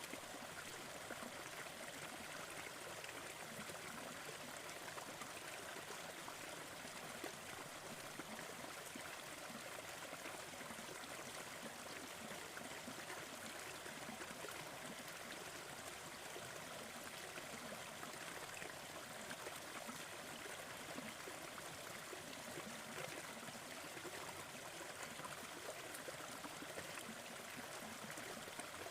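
Steady, even rushing noise with faint, occasional crackles of a wood fire mixed in.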